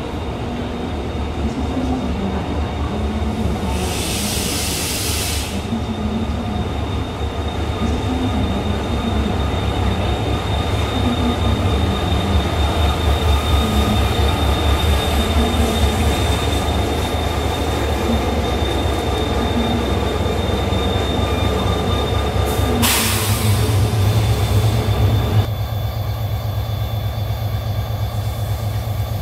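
Korail diesel locomotive hauling a Mugunghwa passenger train into a station: heavy engine and wheel rumble with a steady high brake squeal, broken by two short bursts of hiss, about four seconds in and again near the end. In the last few seconds the sound changes to a steadier low drone of the locomotive's diesel engine.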